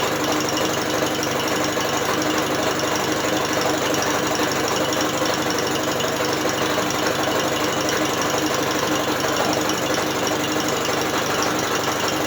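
Electric drill spinning a British Seagull outboard motor, a steady, fast mechanical running sound.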